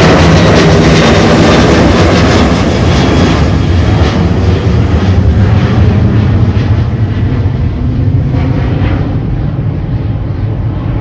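Jet airliner taking off at full thrust: a loud, steady engine rumble that slowly fades and grows duller toward the end as the aircraft moves away.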